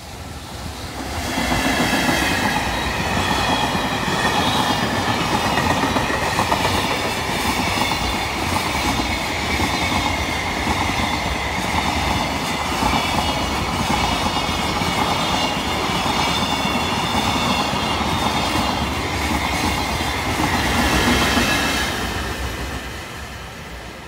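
A container freight train hauled by an EF210 electric locomotive passing close by, with wheels rumbling and clicking over the rail joints and a steady high whine over it. The sound builds about a second in as the locomotive arrives, holds while the wagons pass, and fades over the last couple of seconds.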